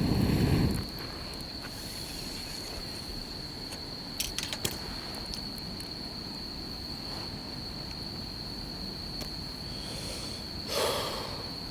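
Steady high-pitched trilling of crickets or other night insects, with a low rumble dying away in the first second, a few sharp clicks about four seconds in and a brief louder rush near the end.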